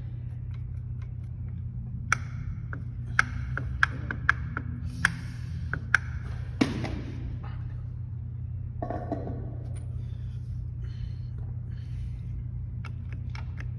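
A handful of sharp metallic clinks and taps, about seven in the first half, as tools and clutch parts are handled during motorcycle clutch disassembly, over a steady low hum.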